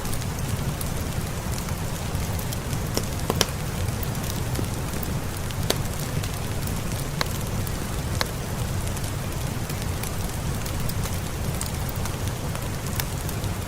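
Steady rain hiss over a deep, even rumble, with scattered single sharp pops and crackles from a fireplace fire.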